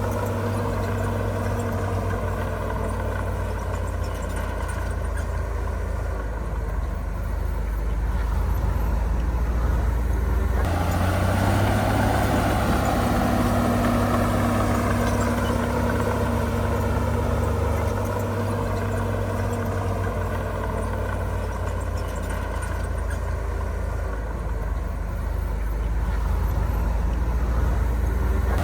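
Heavy diesel engine of earthmoving machinery running under varying load, its pitch rising and falling. The sound changes abruptly about ten seconds in.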